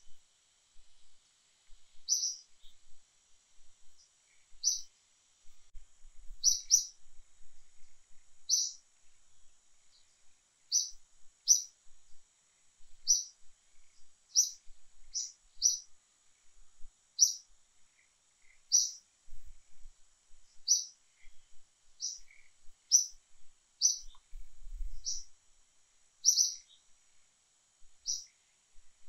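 A bird giving short, high chirps, one every one to two seconds, over a faint steady high hiss.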